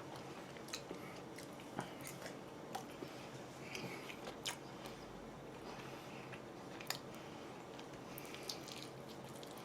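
A person chewing and biting food close to the microphone: faint mouth sounds with scattered small clicks about once a second.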